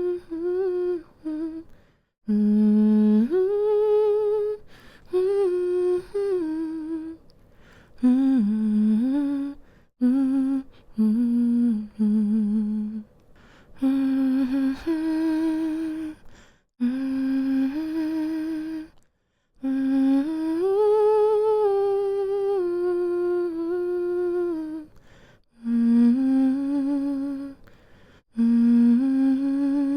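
A woman humming a slow, soothing lullaby-style tune, in phrases of long held notes that step gently up and down, with brief pauses for breath between phrases.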